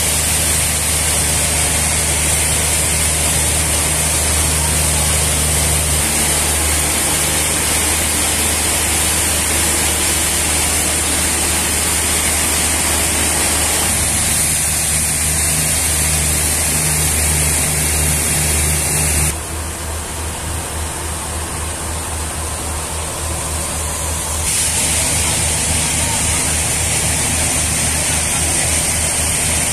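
Sawmill machinery running steadily: a low engine hum under a loud, even rushing noise with a high hiss. The sound drops abruptly about 19 seconds in and comes back up about five seconds later.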